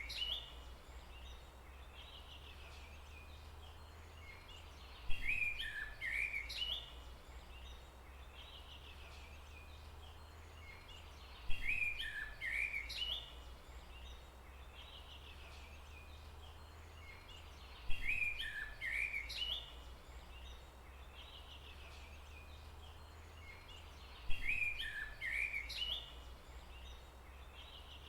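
Forest ambience: a songbird repeating the same short phrase of quick chirps and slides, about every six and a half seconds, four times, over a steady low hum.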